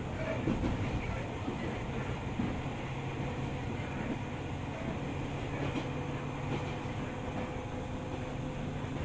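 JR 205 series 600 subseries electric multiple unit running along the track: a steady rumble of wheels on rail with a low, even hum.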